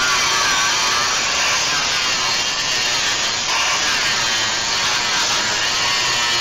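Power tool running steadily under load against the steel truck frame while removing a rivet, its pitch wavering up and down.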